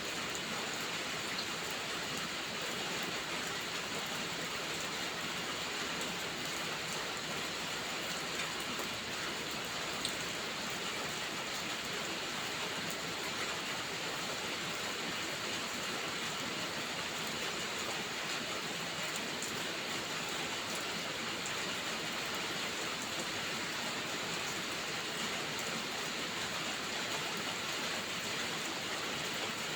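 Steady rainfall, an even unbroken hiss, with a few faint ticks now and then.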